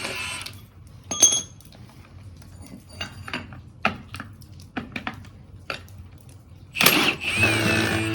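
Light metallic clinks and taps, scattered over several seconds, with a sharp ringing clink about a second in and a louder clatter near the end. Acoustic guitar music comes in at the very end.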